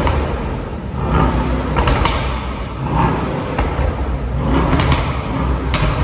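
Brabus Rocket GT 900's twin-turbo V8 revved again and again through its Brabus performance exhaust, rising and falling about once a second, with sharp cracks and pops near the peaks. The engine is not yet fully warmed.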